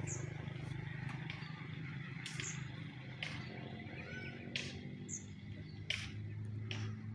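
A bird calling: short, high chirps that fall in pitch, repeated about every two and a half seconds, over a steady low hum with scattered sharp clicks and rustles.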